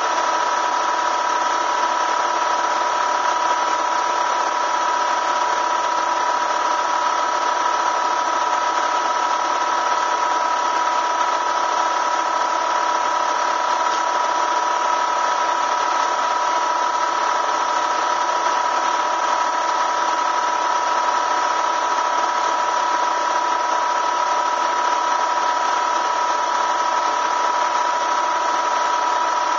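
Bee vacuum's motor running steadily with a constant whine.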